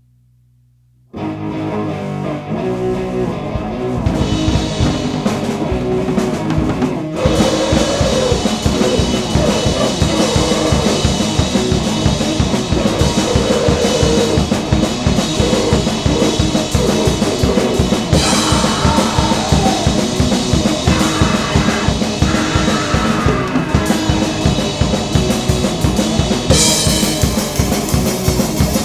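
A grind/noise band kicks in abruptly about a second in: fast, loud drumming with distorted guitar and bass, growing denser around seven seconds in.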